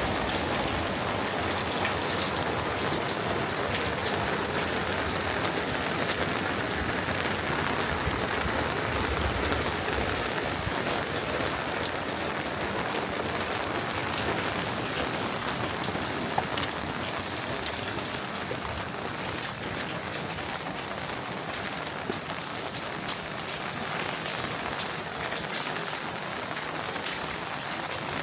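Steady rain falling, with scattered sharper ticks of individual drops; it eases slightly about halfway through.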